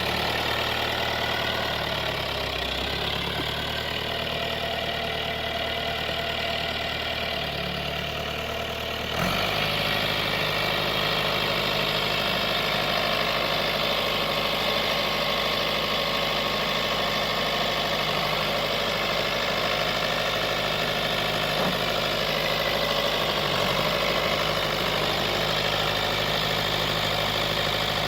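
John Deere 2355 tractor's diesel engine running steadily, close by; about nine seconds in its note changes abruptly and it gets slightly louder, then runs on at the new speed.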